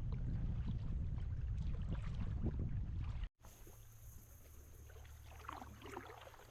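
Wind rumbling on the microphone with water lapping and splashing against a kayak on choppy open water. A little over three seconds in it cuts off suddenly to a much quieter stretch with only faint small knocks and water sounds.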